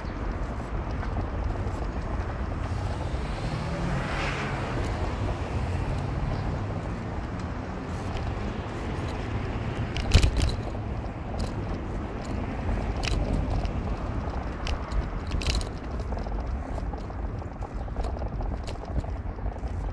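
Car on the move: a steady engine and road rumble, with a sharp knock about halfway through and a smaller one a few seconds later.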